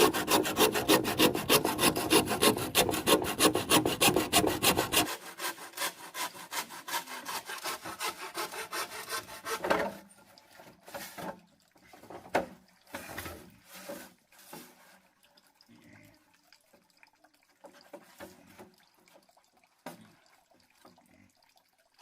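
Fast rhythmic rasping strokes, about five a second, loud for the first five seconds and lighter until about ten seconds in. After that come scattered single scrapes and knocks.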